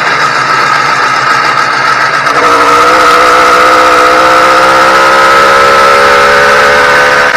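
Motorized bicycle's YD100 two-stroke engine running under way on a new engine still being broken in. The pitch holds steady, then rises a little and gets stronger about two and a half seconds in as the throttle opens.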